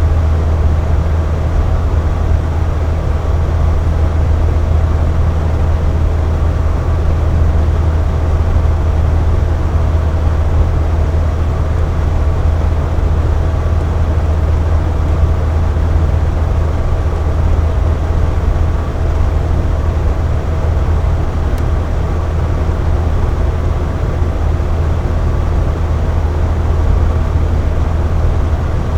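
Air conditioner running steadily: a deep, even hum with a faint whine above it over a constant rush of airflow.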